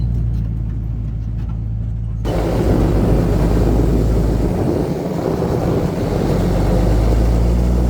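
Pickup truck driving: a steady low engine hum under tyre and road noise. The road noise jumps up suddenly about two seconds in and stays loud.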